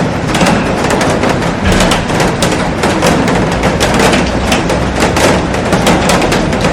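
Heavy rain falling on a glass roof and garden: a dense, steady hiss of rain with many sharp drop strikes drumming on the glass.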